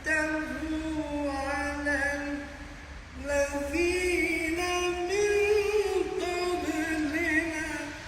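A man's voice reciting the Quran in melodic tartil style: two long drawn-out phrases with ornamented held notes, a short break about three seconds in, and the second phrase pitched higher.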